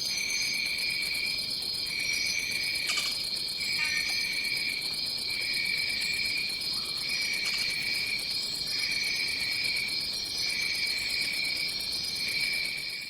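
Tropical jungle insect chorus: a steady high-pitched shrill of many insects, with a lower trilling voice that stops and starts about once a second and a fast pulsing buzz above.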